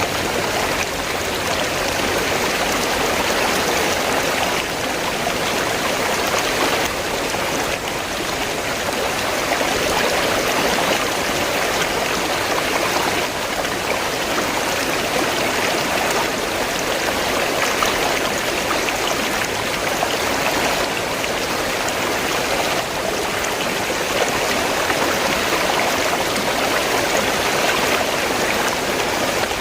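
River water flowing steadily, an even continuous rush with no breaks.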